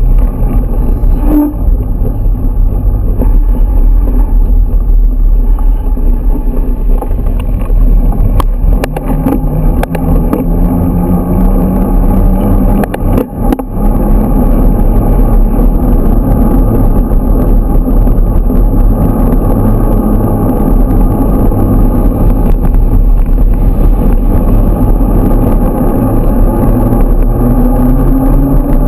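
Motorcycle engine running on the move, its pitch rising as it accelerates, twice, with heavy wind rumble on the microphone.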